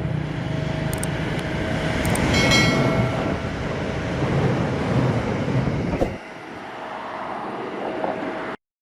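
Simulated passenger train running past: a steady rumble of wheels on rail with a brief high-pitched ringing about two and a half seconds in. The sound drops sharply at about six seconds and cuts off abruptly near the end.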